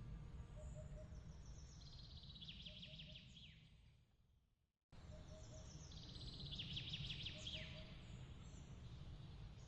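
Faint outdoor ambience: a bird trilling and chirping over a steady low rumble. About four and a half seconds in, the sound fades away, then cuts back in abruptly, and the same bird phrase comes round again.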